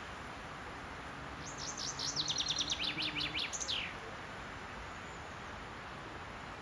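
Common chaffinch singing one song phrase of quick descending notes that speed up into a trill and end in a short flourish. A steady hiss of background noise runs underneath.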